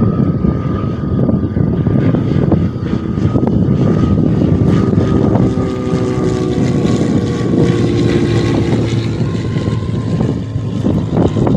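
Airliner engines passing close by, loud and steady, with a whine that slowly falls in pitch as the plane goes past, over wind rumbling on the microphone.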